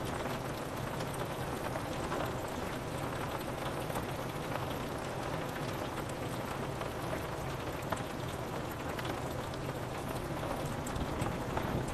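Steady rain on a window pane, an even hiss with scattered drop ticks.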